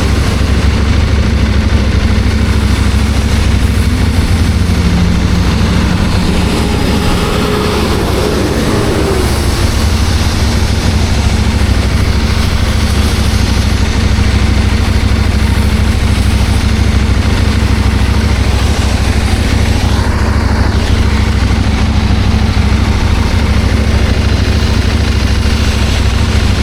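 CFMOTO 800MT motorcycle's parallel-twin engine running steadily on the move, under a constant rush of wind noise.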